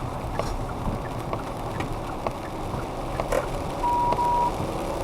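Steady hiss of a car driving in the rain, heard from inside the cabin, with scattered light clicks. Near the end comes a sharp click, then a short high electronic beep broken once in the middle.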